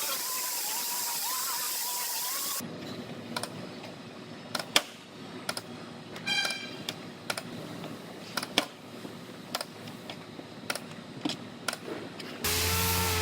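Auto body shop work sounds: a steady tool whine with a wavering pitch cuts off abruptly, then scattered light clicks and taps of hand work with a brief beep-like tone about six seconds in; a different machine with a steady hum starts abruptly near the end.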